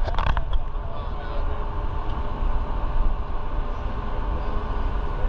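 Steady low rumble and rushing noise of a boat underway, with a few sharp clicks right at the start.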